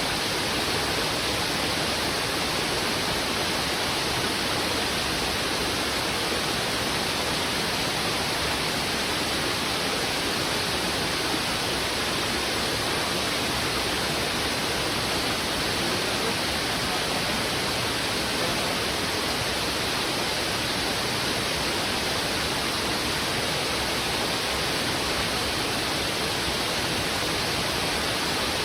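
Heavy river water rushing over rocks: a steady, unbroken wash of noise that does not change.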